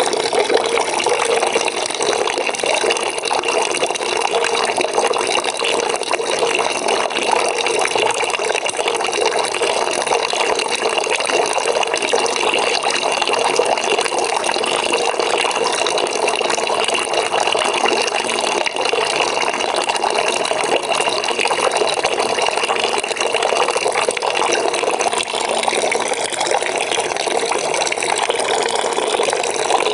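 Water running from a tap into a bucket: a steady, even splashing gush of filling water.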